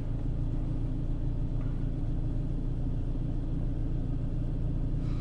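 Renault Clio III's 1.2-litre petrol engine idling steadily, an even low rumble with no change in speed.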